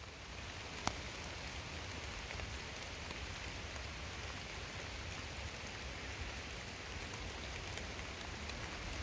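Steady rain falling, with scattered drops ticking and one sharper tick about a second in.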